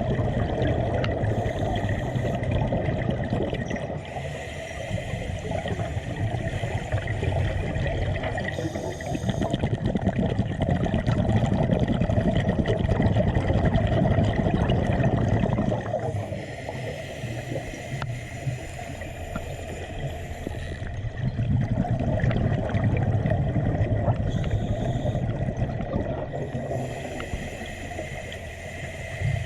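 Water bubbling and gurgling, swelling and easing in surges every five or six seconds.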